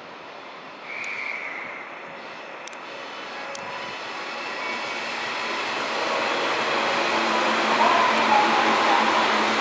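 JR East 185 series electric train passing close, its running noise growing steadily louder as it nears. A short high tone sounds about a second in.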